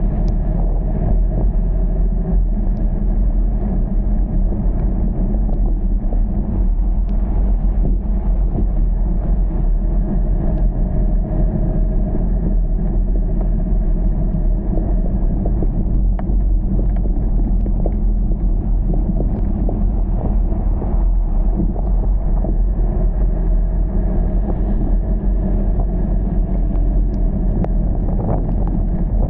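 Steady low rumble of a moving car, with wind buffeting the microphone.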